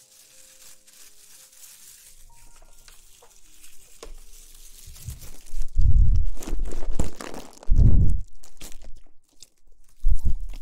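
ASMR rustling and crinkling right against the microphone. It is faint at first, then comes in three loud, deep rubbing swells through the second half.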